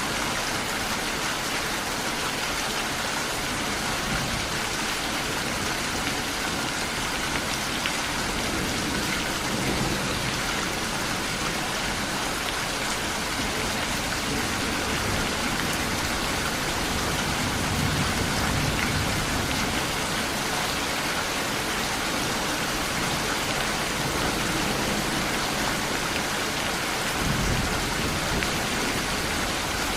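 Steady, heavy rain falling, with low rumbles of thunder swelling up about ten, eighteen and twenty-seven seconds in.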